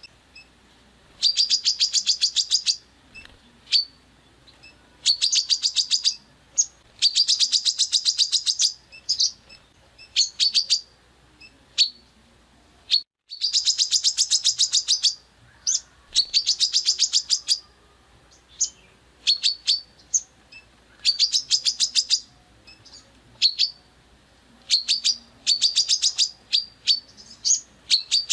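Songbird singing harsh, rapid-fire bursts of high notes, each burst a second or so long, repeated with short gaps and single calls in between. There is a brief dropout about halfway through.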